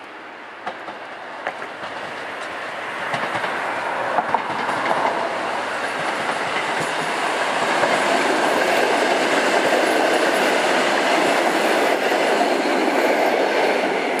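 PKP EN57 electric multiple unit rolling past, its wheels clicking sharply over rail joints and switches. The rolling noise grows steadily louder over the first half and then stays loud.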